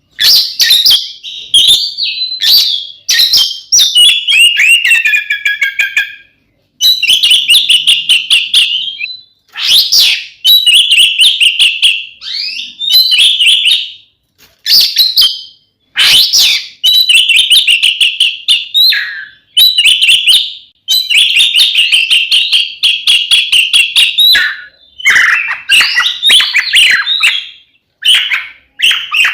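Oriental magpie-robin (kacer) singing loudly in its aggressive fighting song. It delivers phrases of rapid trills, chattering notes and sweeping whistles, with short breaks of a second or less between phrases.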